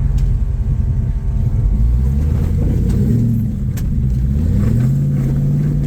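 Off-road vehicle engine revving up and down several times while maneuvering over rocks on a trail, with a sharp click about four seconds in.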